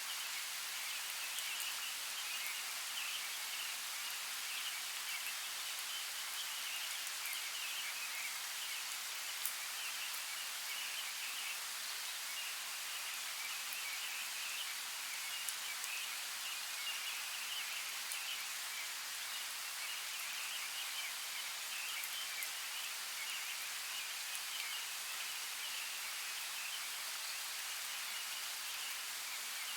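Forest ambience: a steady hiss of water with a wavering high-pitched layer over it, and a couple of sharp ticks.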